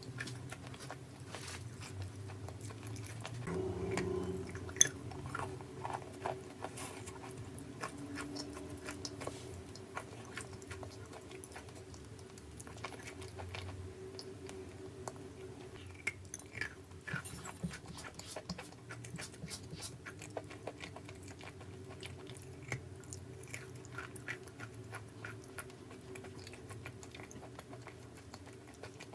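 Close-up chewing and crunching of crunchy chalky clay, a steady run of small irregular crackles and snaps, with one sharper crack about five seconds in.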